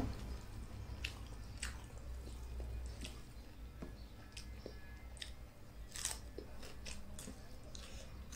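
Soft close-up eating sounds: chewing with scattered small mouth clicks, and the squish of fingers mixing rice on a plate.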